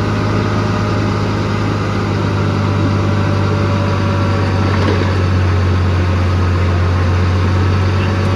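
Heavy diesel engine of earthmoving machinery running steadily at a constant speed: a deep, even drone with a thin steady whine above it.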